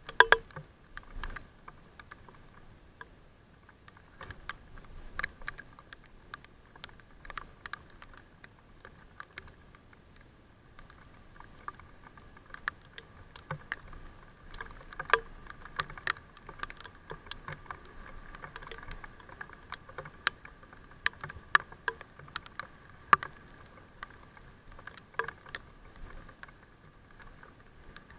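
Irregular sharp taps and clicks, several a second and uneven in strength, over a faint steady high hum: raindrops striking close to the microphone.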